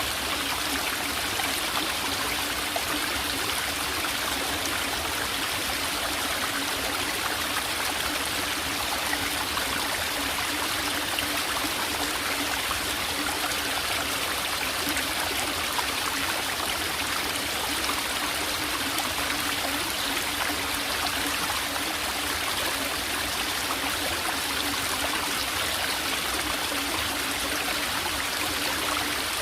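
A small forest stream trickling and babbling steadily over rocks, an even flowing-water sound with no change throughout.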